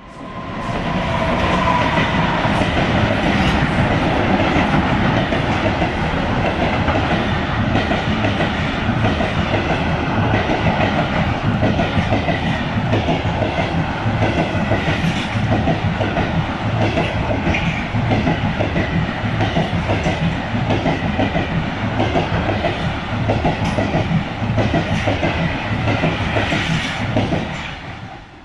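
Express train of ICF coaches hauled by a WAP4 electric locomotive running through the station, its wheels clattering rhythmically over the rail joints with a steady rumble, fading out near the end.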